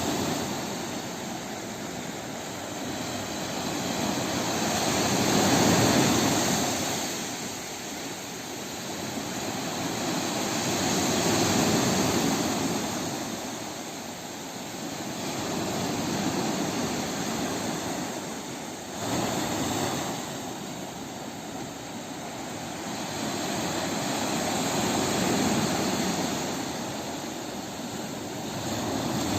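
Sea waves washing in on the shore, the surf swelling and falling away about every five or six seconds.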